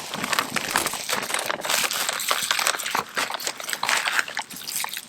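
Wood campfire crackling and popping: a dense run of sharp snaps and pops over a steady hiss.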